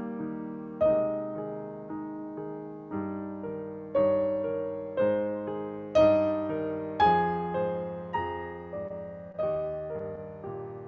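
Solo piano playing a slow, gentle piece, with notes and chords struck about once a second and left to ring and fade.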